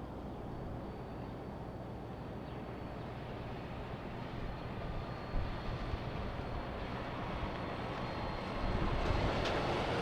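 Freightliner semi truck's diesel engine running with a steady low rumble, growing louder near the end, with a brief knock a little past the middle.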